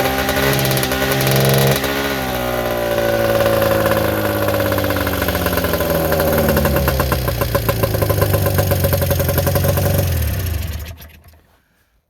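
Arctic Cat 440 snowmobile's two-stroke twin engine running, with a few short throttle blips at first, then slowly dropping in pitch as it idles down and shutting off near the end.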